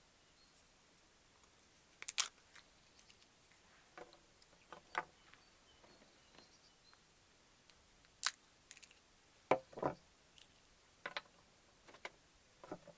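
Irregular sharp clicks and light knocks, about a dozen, the loudest a little after two seconds in and again around eight and nine and a half seconds, with faint bird chirps behind them.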